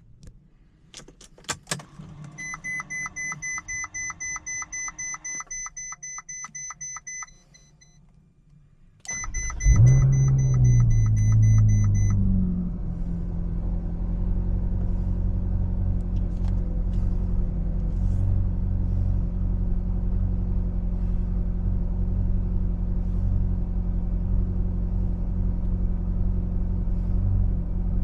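A few clicks, then a dashboard warning chime beeping about four times a second; about nine seconds in the 2013 Ferrari California 30's V8 fires, flares up in revs with the chime still going, and after a few seconds settles into a steady cold-start idle, heard from inside the cabin.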